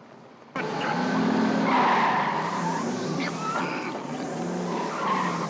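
Car film soundtrack with engine noise and tyres squealing, starting abruptly about half a second in.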